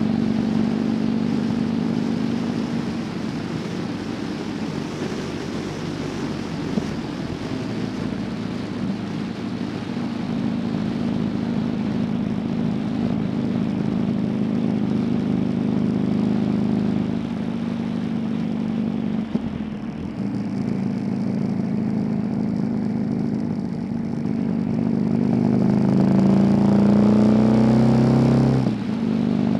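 Motorcycle engine running steadily under way, with road and wind noise. Near the end it revs up, rising in pitch and getting louder, then drops off abruptly.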